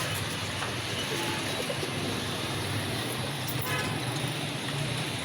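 Steady road traffic noise with a low engine hum, and a brief car horn toot about three and a half seconds in.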